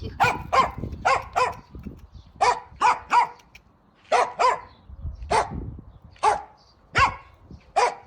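A dog barking repeatedly: about a dozen short, sharp barks, often in quick pairs, with short pauses between.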